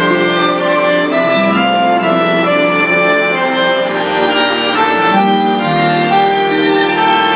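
Concert accordion playing held chords with a melody that moves from note to note, in a concerto for accordion, winds and chamber orchestra.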